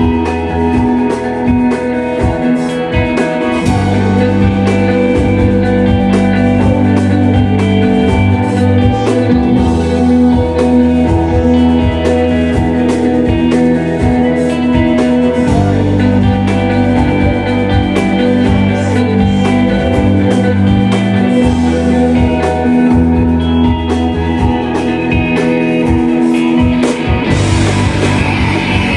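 Live shoegaze band playing: dense, sustained electric guitar chords over bass notes that change every few seconds. Near the end the texture thickens and the full band with drums comes in.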